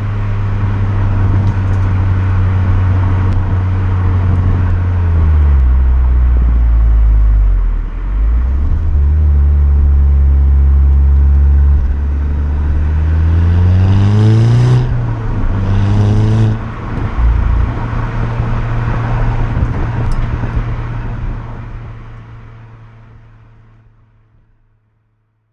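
Volkswagen Golf 6 GTI's 2.0 TSI four-cylinder engine running steadily while driving, with its pitch dipping for a few seconds and then climbing quickly twice around the middle before settling again. The sound fades out over the last few seconds.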